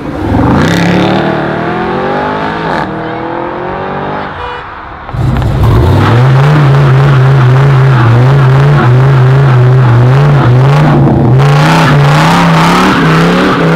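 A car accelerating hard, its engine note rising with a gear change near 3 s, then fading. From about 5 s, a Dodge Ram SRT-10's V10 is held at high revs in a burnout, the rear tyres spinning, its pitch wavering and then climbing near the end.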